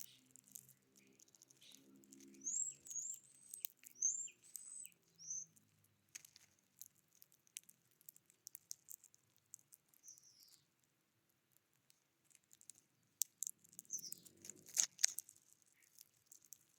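Small songbirds giving short high chirps in a few scattered bursts, over many light taps and clicks.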